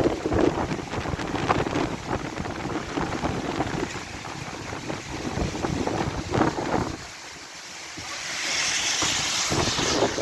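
Heavy rain with strong gusty wind buffeting the microphone. The wind rumble drops away about seven seconds in, leaving a steadier hiss.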